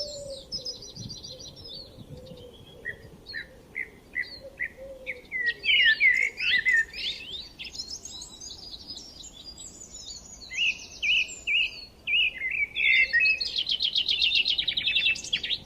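Several songbirds singing at once, with fast high trills, a run of short evenly spaced notes, and busy warbling phrases that overlap.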